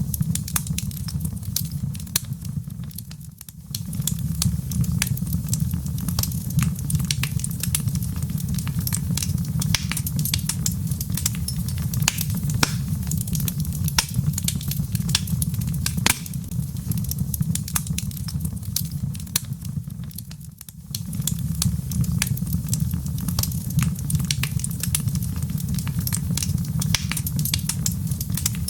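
Wood fire crackling in a fireplace: dense, irregular pops and snaps of burning logs over a steady low rumble. The sound briefly dips twice, once about three seconds in and again about twenty-one seconds in.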